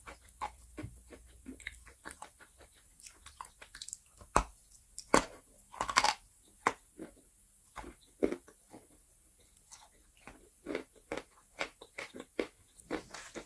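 Chalk being bitten and chewed: short dry crunches at irregular intervals, the loudest bites coming about four to six seconds in and again just past eight seconds.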